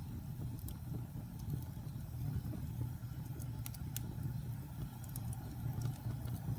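Wood fire burning in a fireplace: a steady low rumble of flames with scattered sharp crackles and pops, a couple of louder ones about halfway through.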